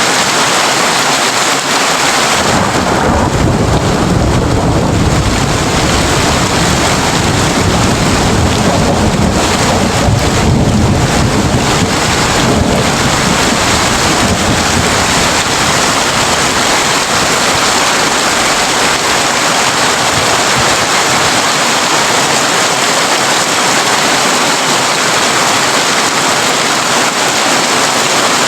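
Heavy rain drumming steadily on a tin roof. From about two seconds in, a long low rumble of thunder rolls under the rain and dies away before the middle.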